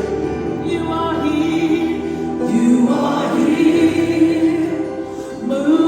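Congregation and worship team singing a gospel praise song together with instrumental accompaniment, holding long notes that slide between pitches.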